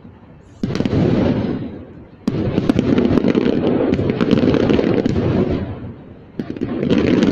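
Distant fireworks: three sudden barrages of rapid bangs and crackling. They start just under a second in, a little after two seconds in, and near the end, and the middle barrage runs about three seconds.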